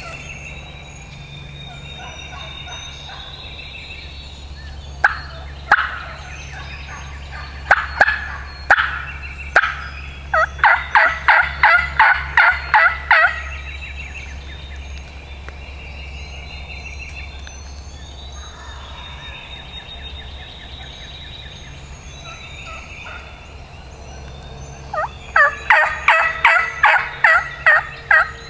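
Wild turkey calling. A few single notes come first, then two runs of rapid repeated yelps, each lasting about three seconds: the first near the middle, the second near the end.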